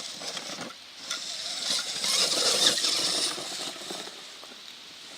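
Electric motors and gears of a motor-on-axle RC rock crawler whining under power as it climbs rock. The sound swells about a second in, is loudest from about two to three and a half seconds in, then fades.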